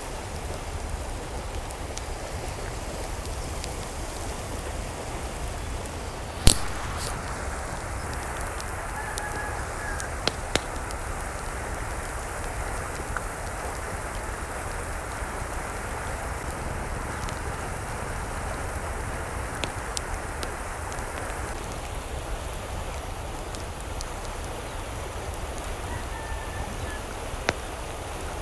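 Steady rain falling, with a sharp knock of a drop or drip about six seconds in and a few lighter ones later. A faint short bird call is heard twice, once early and once near the end.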